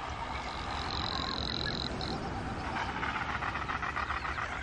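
Courting male frigatebird giving a fast rattling, drumming call from his inflated throat pouch. The call starts about halfway through, over a steady background hiss.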